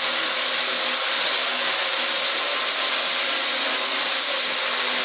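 Parrot AR.Drone 2.0 quadcopter's four electric motors and propellers running steadily in flight, a constant high-pitched whine.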